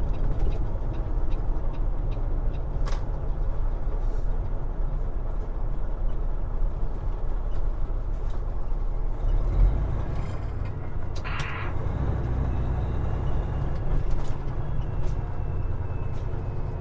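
Steady low engine and road rumble heard inside a Peterbilt 389 glider's cab as the truck rolls along.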